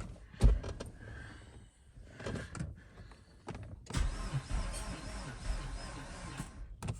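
A 2009 Nissan Altima's starter motor whirring for about three seconds on a first start attempt after an engine swap, without the engine catching: the battery is too low to crank it properly. A single knock comes shortly before, about half a second in.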